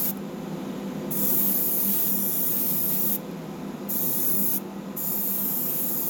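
Airbrush spraying paint in on-and-off bursts of high hiss. The spray stops briefly about a second in, again past the middle, and once more near the end, before starting again each time. A steady low hum runs underneath.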